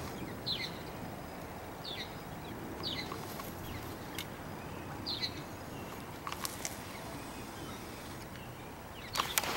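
Birds giving short, high, falling chirps every second or so over a steady outdoor background hiss, with a few sharp clicks midway and near the end.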